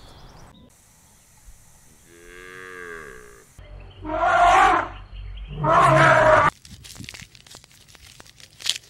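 Cow mooing: one quieter drawn-out call, then two loud harsh moos in quick succession.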